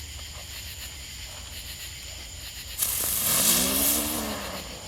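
Firework burning with a loud hiss for about two seconds, starting about three seconds in, over steady chirring insects.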